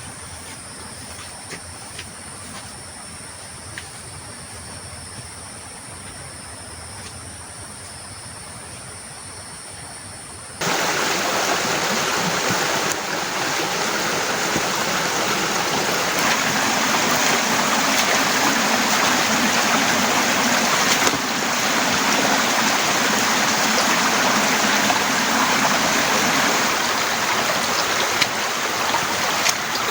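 Rainfall: lighter at first with scattered drip ticks, then abruptly a much louder, steady hiss of heavy rain about ten seconds in.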